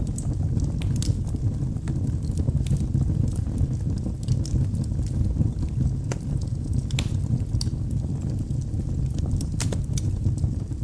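Wood fire burning in a fireplace: a steady low rushing from the flames with frequent sharp crackles and pops from the logs, a few louder pops about seven and ten seconds in.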